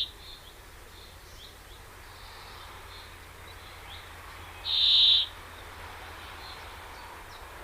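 Bird calls: two loud, harsh, high calls about half a second long, one right at the start and one about five seconds in, with faint short chirps in between.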